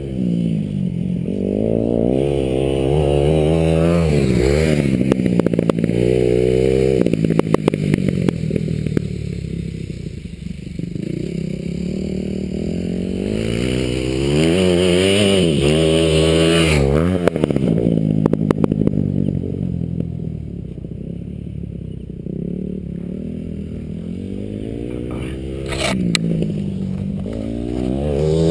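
Dirt bike engine riding hard, its pitch climbing and dropping repeatedly as it revs up, shifts and eases off, with scattered rattles and clatter.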